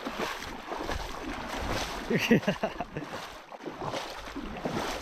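River water splashing and lapping around a person sitting in a shallow river, with wind noise on the microphone. A brief louder sound stands out a little after two seconds in.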